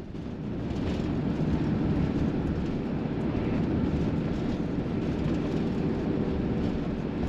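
Steady engine and road noise of a vehicle being driven, heard from inside the cab, rising briefly about a second in.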